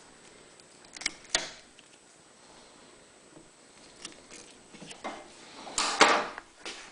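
Rubber hose being cut and handled: a few sharp clicks about a second in, more small clicks later, and a louder rustling snip near the end.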